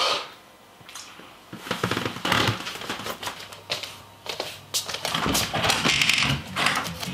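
Rustling and scuffing of a person getting off a bed and moving across a room: fabric and bedding rustling and foot scuffs, in irregular clusters.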